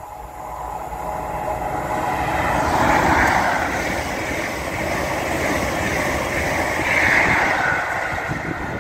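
CrossCountry Class 43 HST passing through at speed with diesel power cars at each end. The noise builds as it approaches and carries the steady rush of the coaches' wheels on the rail. It is loudest about three seconds in and again near seven seconds, as the power cars at the front and rear go by.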